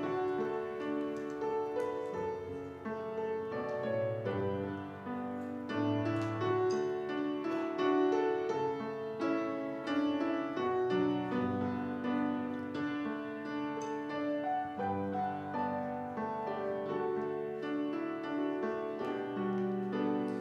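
Piano playing a slow hymn introduction in sustained chords with a melody line.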